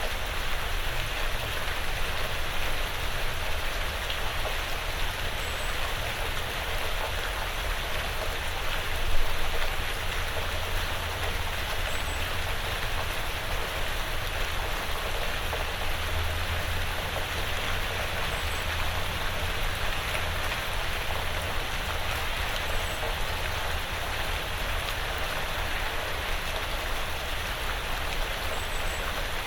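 Steady light rain falling on a porch roof and the surrounding woods: an even hiss of drops, with one louder tap about nine seconds in.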